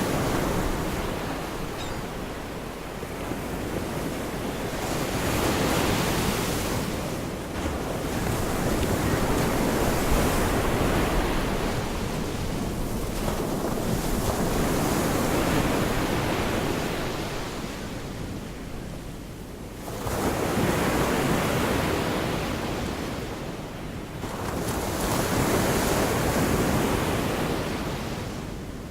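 Gulf of Mexico surf: waves breaking and washing up the beach, the sound swelling and fading in slow surges about every five seconds.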